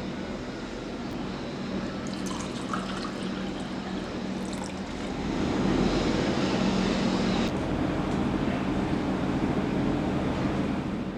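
Water running or pouring, growing louder about five seconds in, with a few faint clicks before that.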